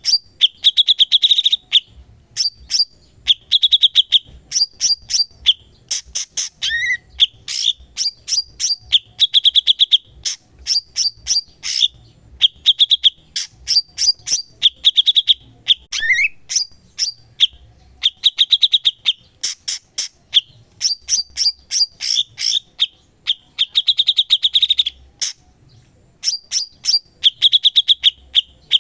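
Cucak cungkok (brown-cheeked bulbul) singing vigorously and without a break: sharp chirps and fast chattering trills, repeated in quick phrases every second or two.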